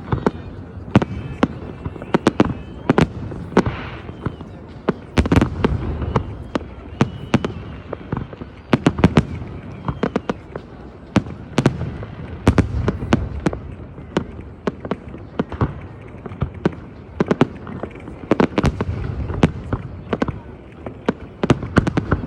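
New Year fireworks going off: many sharp bangs at irregular intervals, several a second at times, over a continuous low rumble of more distant explosions.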